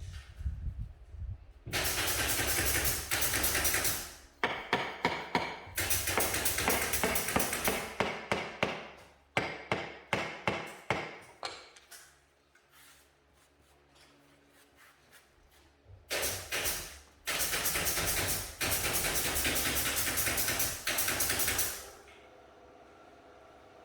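Brick-and-mortar work: three spells of rapid rasping or scraping, about two to three seconds each, broken by runs of sharp knocks at about three a second, like tapping bricks or mortar with a hammer or trowel. It goes quiet after about 22 seconds.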